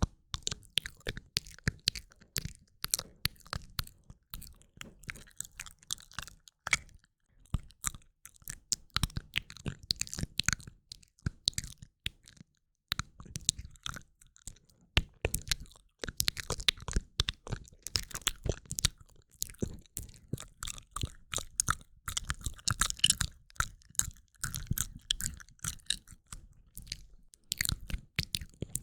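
Close-miked ASMR mouth sounds: rapid wet clicks, pops and smacking of lips and tongue, in dense clusters with a brief lull about halfway through.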